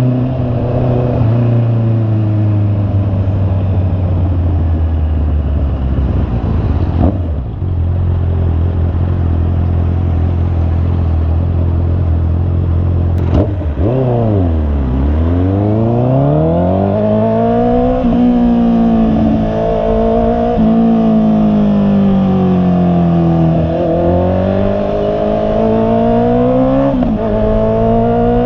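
Honda CB650R's inline-four engine running under way: it holds a steady pitch, briefly dips, then just after halfway a click comes as the pitch falls sharply and climbs back. It then rises and falls several times as the bike accelerates and changes gear.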